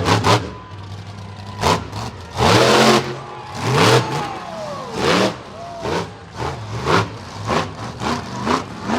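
Monster truck engine revved in a series of short throttle blips about a second apart, each rising and falling in pitch, with one longer, louder rev about two and a half seconds in.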